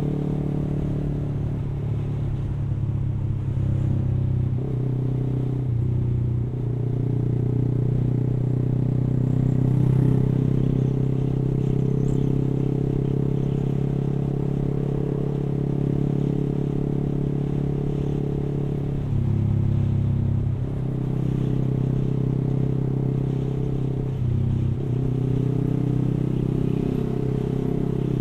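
Yamaha R15 V3's 155 cc single-cylinder engine running through an aftermarket exhaust while riding at city speed, heard from on the bike. It holds a steady note, with the pitch dropping and picking up again briefly about five, nineteen and twenty-four seconds in as the throttle is eased and reopened.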